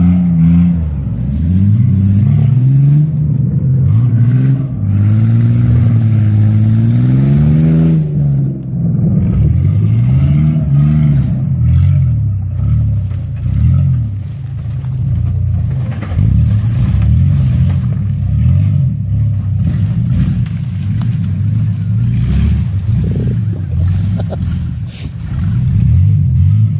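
Engine of a homemade six-wheel S10 pickup being driven hard off-road, revving up and down again and again with the pitch rising and falling.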